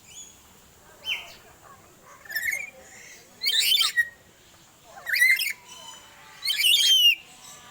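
A bird giving loud, harsh squawking calls in three bursts, about a second and a half apart, after a few shorter whistled notes.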